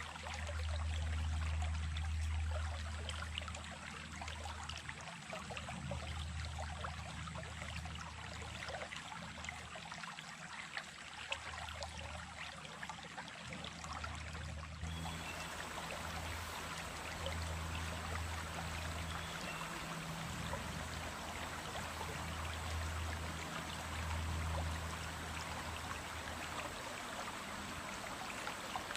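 Small stream of running water, a steady rush and trickle, with a low rumble that swells and fades underneath. About halfway through the sound changes abruptly, becoming brighter and fuller.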